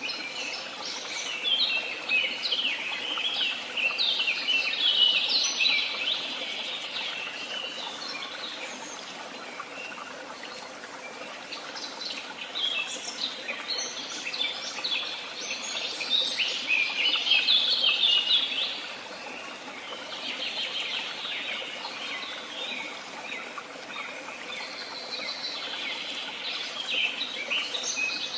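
Several songbirds singing, with dense runs of rapid chirps and trills that rise and ease off in long spells, over a steady background hiss.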